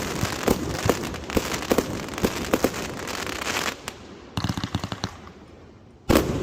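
Consumer fireworks from a multi-shot cake going off in rapid sharp pops and crackles, thinning out after about three and a half seconds into a fainter crackle, then a fresh loud volley of pops just before the end.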